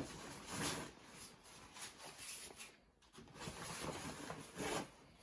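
Rustling and rubbing of gear as a rolled Thermarest sleeping pad is pushed down into a pack, in several uneven swells.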